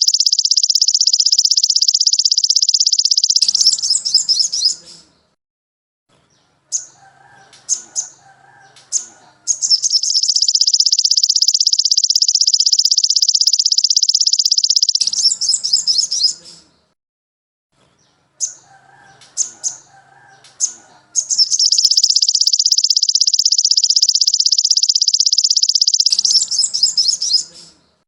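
Recorded songbird song played as tutor material: a long, fast, high trill of about five seconds, ending in a few sharp chirping notes, repeated three times with short pauses and scattered chirps between.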